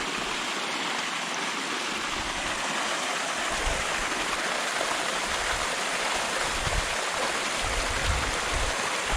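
Small stream of leftover flash-flood runoff running down a gorge: a steady rush of water, with some low buffeting near the end.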